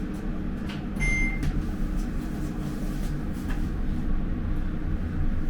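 Passenger lift running with a steady low hum of the moving car and one short electronic beep about a second in, with a few faint clicks.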